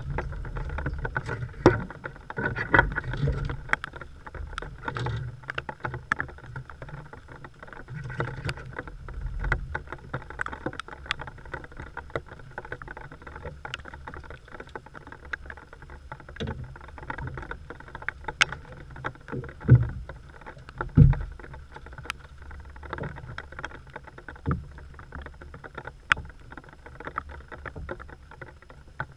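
Heavy rain ticking irregularly on an open boat and the camera housing, over a low rumble. A few dull knocks come from gear being handled in the boat, the loudest two about two-thirds of the way through.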